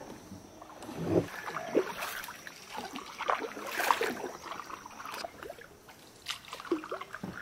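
Kayak paddles dipping and pulling through calm river water, with irregular splashes and drips between strokes.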